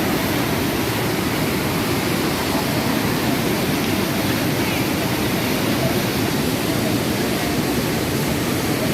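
Water pouring over a waterfall: a steady, loud rush of noise that does not change.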